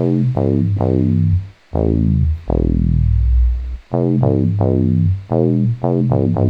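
Synth bass preset from Akai's MPC expansion 'The Noise', played as a run of short plucky notes, each with a bright attack that closes down quickly. About two and a half seconds in, one long low note sweeps slowly darker before the short notes resume.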